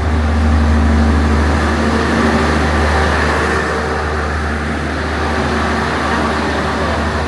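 Diesel train passing close by, a loud, steady low engine rumble with a few steady tones above it.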